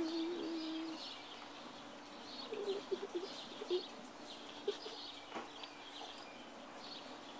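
Wild birds chirping repeatedly in the background. A short, low, steady tone sounds in the first second, and a single sharp click comes about five seconds in.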